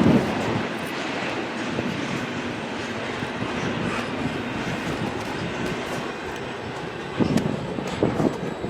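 A freight train's cars rolling past, a steady rumble and rattle of wheels on rail with a few louder knocks near the end.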